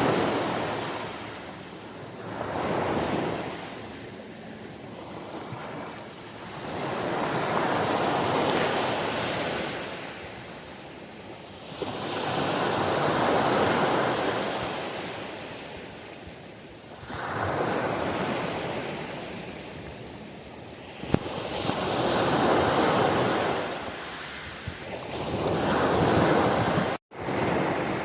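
Ocean waves breaking and washing up a shore, each surge swelling and fading every four to five seconds. The sound drops out for a split second shortly before the end.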